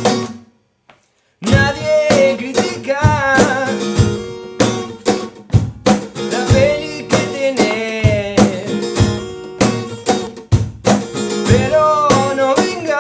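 Acoustic guitar playing chords, with a gliding melody line over them. The music cuts out for about a second near the start, then comes back in.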